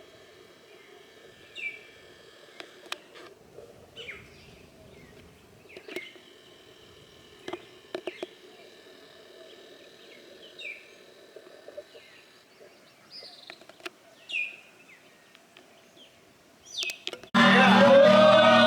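Birds chirping outdoors: short, sharp calls every second or two over a faint steady background. About seventeen seconds in, loud Latin music with singing starts abruptly and covers everything.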